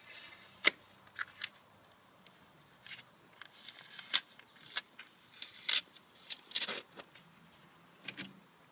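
Masking tape being peeled off and handled, with irregular sharp crackles and short rustles of tape and paper.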